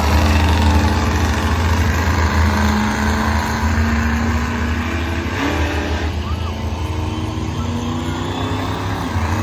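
Monster truck engines running with a deep, steady rumble, their pitch shifting up and down in steps.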